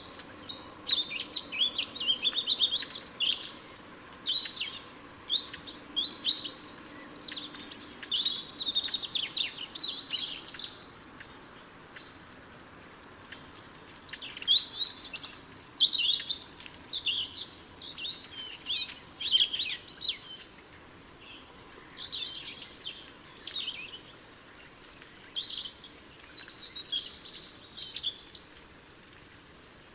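Small garden songbirds chirping and calling rapidly, in several busy spells with short lulls between them.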